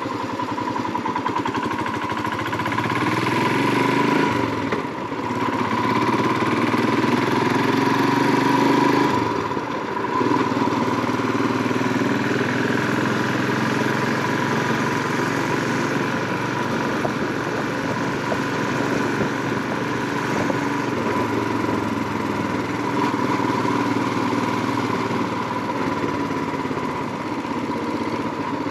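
Royal Enfield Himalayan 411's single-cylinder engine running under way. The engine note climbs and cuts back briefly twice in the first ten seconds, then holds steady while cruising.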